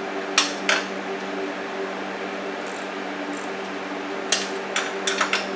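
Sharp metallic clinks of a wrench and loose bolt hardware, a nylon-insert lock nut among it. There are two clinks about half a second in, then a quick run of four or five near the end. A steady low hum sits underneath.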